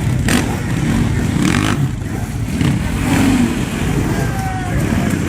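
Off-road motorcycle engines running and revving, a dense, loud engine noise.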